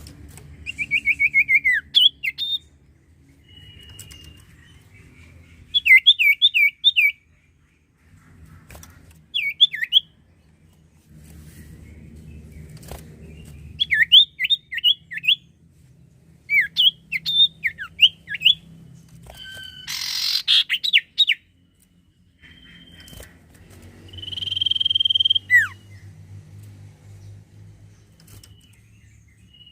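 Common iora (cipoh) singing: repeated short bursts of quick, falling chirps, with a harsh note about two-thirds of the way through and a longer held whistle near the end.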